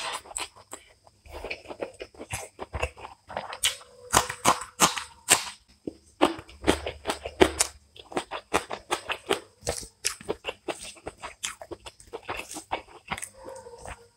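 Close-miked eating by hand: chewing with many sharp mouth clicks and crunches, along with fingers mixing rice and vegetable fry on a plate.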